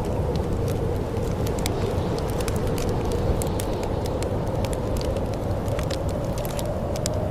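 Wood fire crackling in a fireplace: many small irregular pops and snaps over a steady low rushing of the flames.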